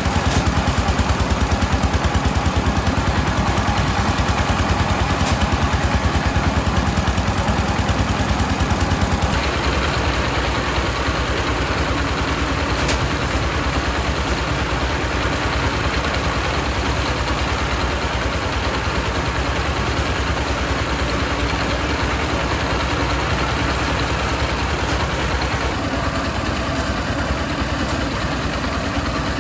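Small engine running steadily with a fast even pulse. Its sound drops a little and changes about nine seconds in.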